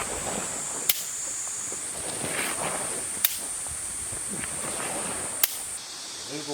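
Jukbi (split-bamboo clapper) struck three times, sharp single cracks a little over two seconds apart, each one the cue for the next movement. A steady high-pitched buzz runs behind them and stops near the end.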